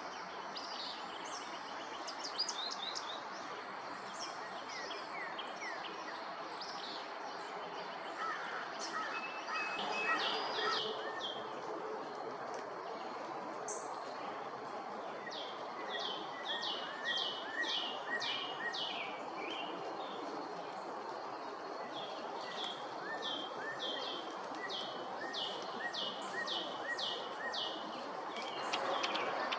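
Songbird singing, with repeated runs of short, high notes that fall in pitch, over a steady background hiss.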